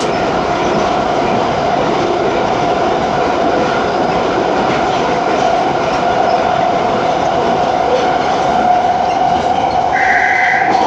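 London Underground Piccadilly line train running, heard from inside the carriage: rail running noise with a steady whine over it, the weird noise that this train makes. A brief higher tone sounds near the end.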